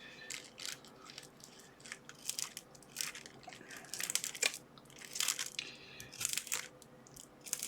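Plastic bubble wrap being handled and pulled off, crinkling and crackling in an irregular series of short crackles.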